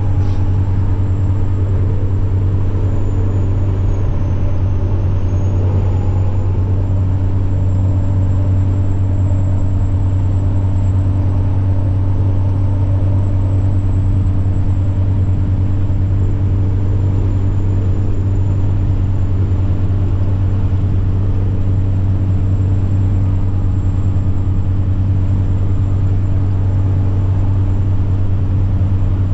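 Semi truck's diesel engine running at a steady cruise, a deep even drone with a thin high turbocharger whine above it that dips in pitch for a moment about four seconds in.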